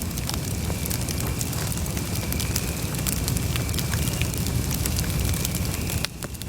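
Wood campfire crackling, with many small sharp pops over a steady low rumble of the flames. The level drops suddenly about six seconds in.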